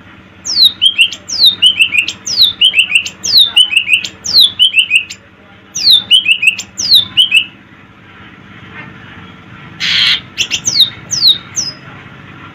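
A songbird singing a rapid series of high whistles, each sliding steeply downward, in quick runs over the first seven seconds. About ten seconds in comes one harsh, rasping squawk, then a few more down-slurred whistles.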